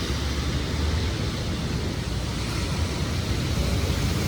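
Steady rumble and hiss of city traffic in heavy rain, with vehicle engines and tyres on wet road under the rain noise.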